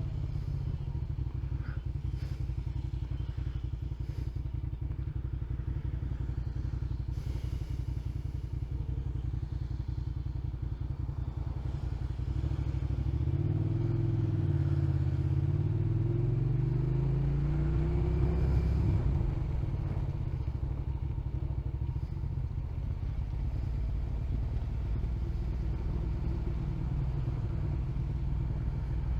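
Motorcycle engine running while riding. About halfway through, it gets louder and climbs in pitch as the bike accelerates, then falls back to a steady cruise.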